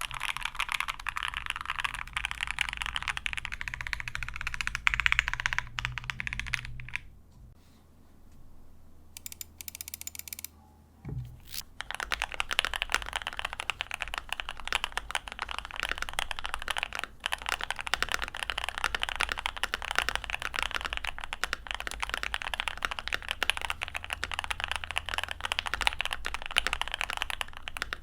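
Typing sound test on a GOK 7V keyboard with lubed H1 switches, PBT keycaps and a polycarbonate plate, tape-modded with electrical tape under the PCB: fast continuous keystrokes. The typing stops for a few seconds about a quarter of the way in, then resumes.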